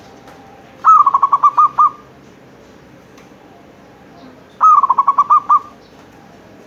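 Zebra dove (perkutut) cooing: two phrases of quick, rolling coo notes, about eight notes each, the first about a second in and the second a few seconds later.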